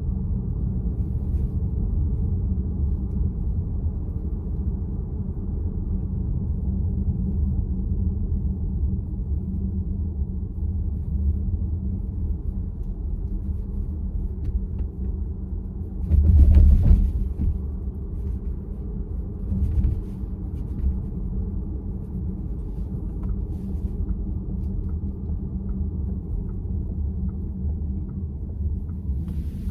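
Road and tyre rumble inside the cabin of a moving VW ID.4 electric car, steady throughout. Just past halfway there is one louder burst lasting about a second.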